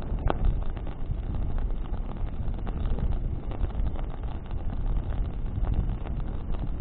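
Wood bonfire burning in the wind: a steady low rumble of wind and flame, with frequent crackles and pops from the burning branches and one sharper pop just after the start.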